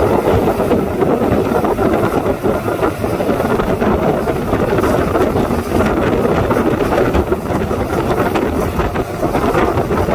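Loud steady wind noise on the microphone with the rush of a motorboat moving over water.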